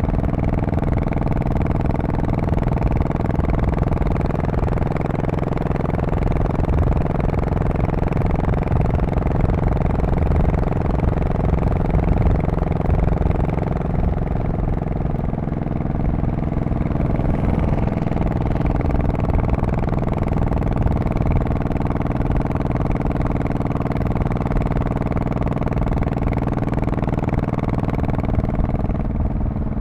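Honda Shadow Spirit VT1100C V-twin engine and exhaust running steadily, with the pitch shifting slightly about halfway through.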